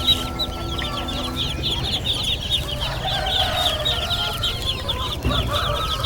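Young chicks peeping in a dense, continuous chorus of short falling chirps, with some lower calls from other poultry in the middle.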